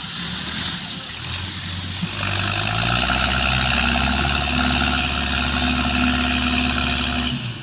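Tractor diesel engine run up to full power about two seconds in, held there steady and loud, then dropped back suddenly near the end, as it strains to pull a trolley stuck in the ground.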